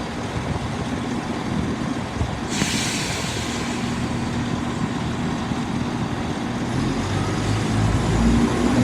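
Greater Anglia Class 170 Turbostar diesel multiple unit idling at the platform with a steady low rumble, a short hiss of air about two and a half seconds in. Near the end its diesel engines rise and grow louder as it starts to pull away.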